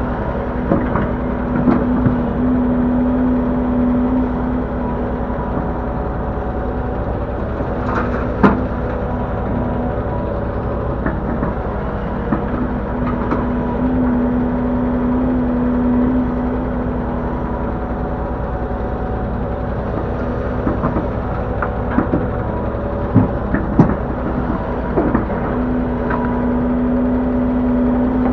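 Link-Belt 145X3E hydraulic excavator working under load: its diesel engine runs steadily while a strong hum swells three times, about twelve seconds apart, with each dig-and-dump cycle. Sharp knocks come through now and then, the loudest about eight seconds in.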